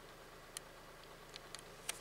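Honda N-VAN's 660 cc inline three-cylinder engine idling steadily in Park, heard quietly from inside the cab. A few light clicks come through, mostly in the second half.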